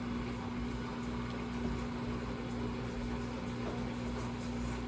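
Washing machine running its spin cycle: a steady motor hum with one held tone and a low rumble underneath.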